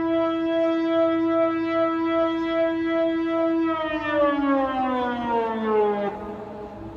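A loud, steady siren-like tone with many overtones, held for a few seconds. It then slides down in pitch for about two seconds and cuts off about six seconds in.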